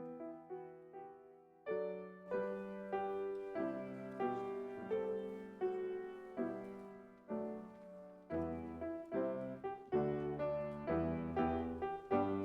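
Piano playing a slow, gentle piece, soft at first and fuller from about two seconds in, with low bass notes joining about eight seconds in.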